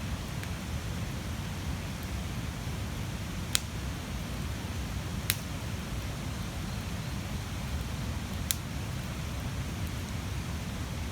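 Large wood bonfire burning: a steady low rumble of flames with three sharp pops of the burning wood spread through, the first the loudest.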